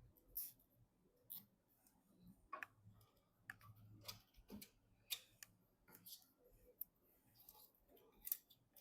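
Faint, scattered clicks and light rustles of hands handling computer parts during assembly, a dozen or so irregular ticks.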